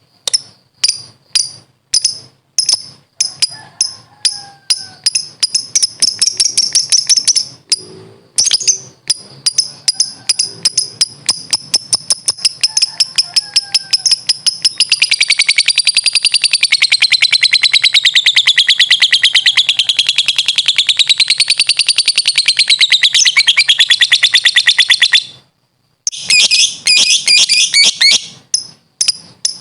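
Lovebird ngekek: sharp, high chirps repeated faster and faster until they run together, about a third of the way in, into one long rapid chatter that wavers up and down in pitch for about ten seconds. It breaks off near the end, then resumes in short bursts.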